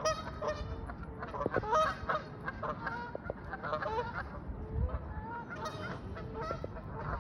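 Geese honking, many short calls overlapping one after another.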